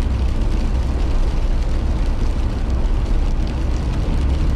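Steady low rumble of a car driving on a snowy road, heard from inside the cabin: engine and tyre noise at an even level.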